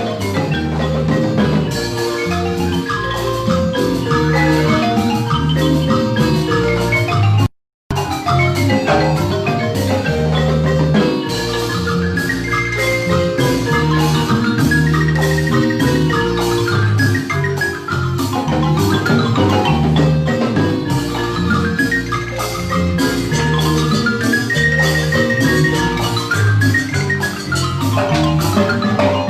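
Guatemalan marimba ensemble playing a lively piece, with melody notes sustained in rapid tremolo rolls over a steady bass line. About a quarter of the way in, the sound drops out completely for a split second.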